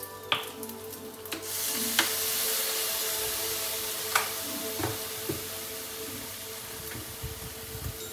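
Fried rice sizzling in a hot wok; the sizzle swells about a second and a half in as sauce from a bottle goes onto the rice, then slowly eases. A few sharp clicks come through it.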